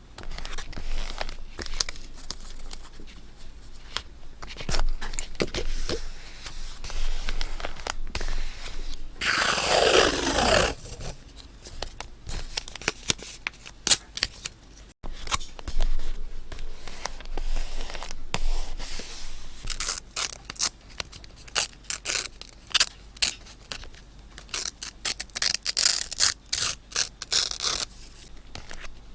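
Close-up paper-craft handling sounds: paper being scraped, tapped and rustled, with a long tear about ten seconds in. A quick run of crisp scratching strokes follows near the end.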